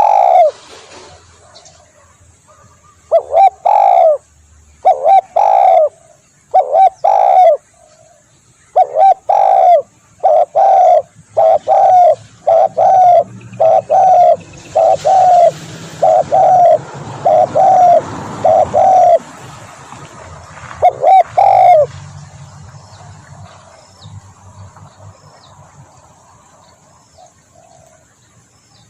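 Spotted dove cooing: a long run of short coos, mostly in quick pairs, that stops about 22 seconds in.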